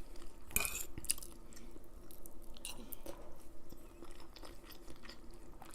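A person chewing food close to the microphone, with many small irregular wet mouth clicks and smacks over a faint steady hum.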